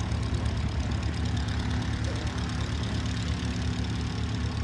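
A light aircraft's piston engine and propeller running steadily with an even hum.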